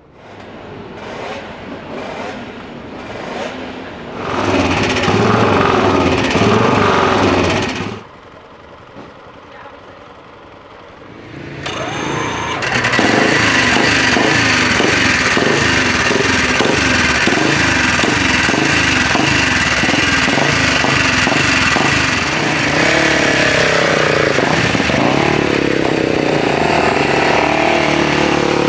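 Classic racing motorcycle engines running and being revved, in several short stretches that cut off abruptly. After a quieter spell, a loud engine runs steadily and its revs rise and fall repeatedly near the end.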